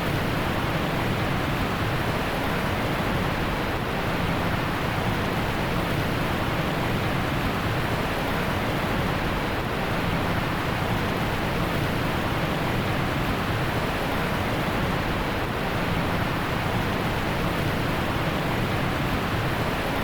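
Heavy rain falling, a steady even hiss with no single drops or thunder standing out.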